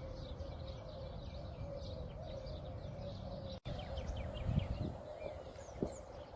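Small birds chirping over a steady outdoor background hum: many short, quick chirps, with a brief cut in the audio about halfway through.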